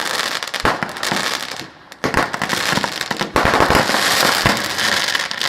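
Fireworks going off in quick succession: a dense, continuous crackling with many sharp bangs, easing briefly about two seconds in and then building again.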